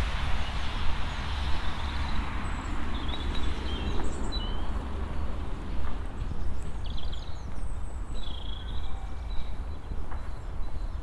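Outdoor walking ambience: footsteps on a path over a low wind rumble on the microphone, with small birds chirping briefly now and then.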